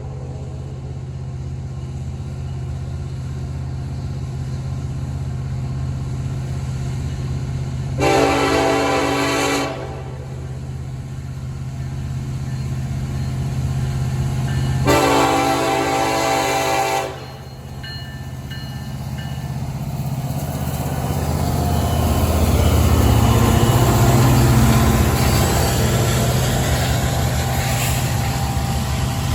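Norfolk Southern freight train's diesel locomotives running with a steady low rumble, the air horn sounding two blasts about eight and fifteen seconds in, the second one longer. From about twenty seconds in the train passes close, louder, with engine and wheel noise.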